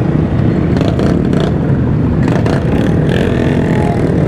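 Mini bikes and motorcycles riding along in a group: a steady, loud engine and road rumble with a few brief rattles.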